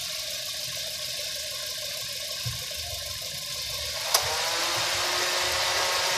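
Toyota VVT-i four-cylinder engine idling steadily with a hiss under the open bonnet during a radiator coolant top-up. A single sharp click comes about four seconds in, and the sound is slightly louder after it.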